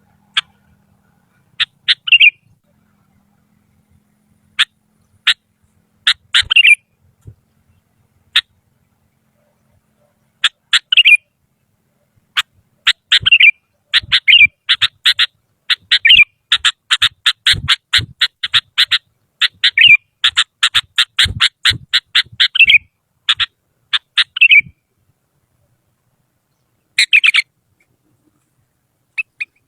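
Sooty-headed bulbul (kutilang) calling with sharp, clear notes. Scattered single chirps come first, then a fast run of repeated notes, about five a second, lasting roughly ten seconds, and after a pause one short final burst.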